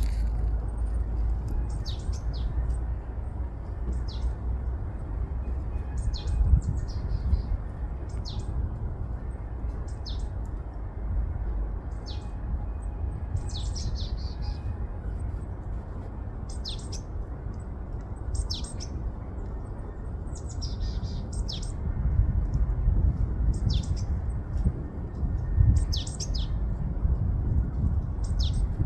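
A small bird calling in short, high chirps, one every second or two and sometimes in quick pairs, over a steady low rumble of wind on the microphone that grows stronger in the last third.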